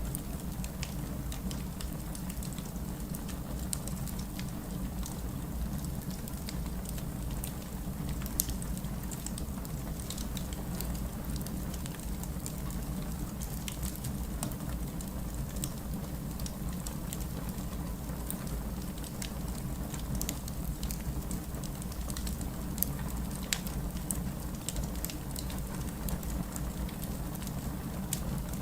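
Steady rain with fireplace crackling: a continuous low rumble and patter, with scattered sharp crackles and pops from the fire.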